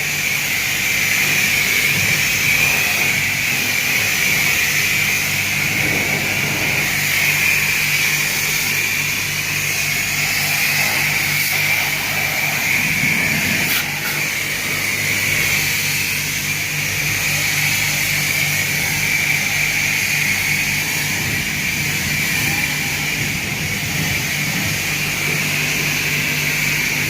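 Self-service car wash pressure wand spraying high-pressure soap: a steady hiss over a low hum.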